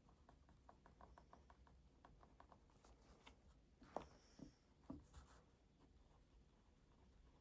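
Faint desk sounds of writing by hand: a quick run of light pen taps and strokes in the first few seconds, then a few louder knocks around four to five seconds in.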